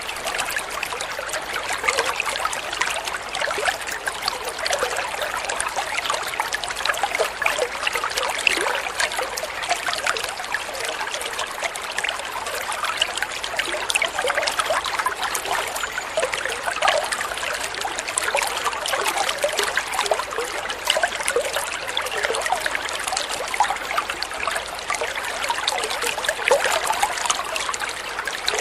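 Water flowing and trickling steadily, with many small bubbling splashes.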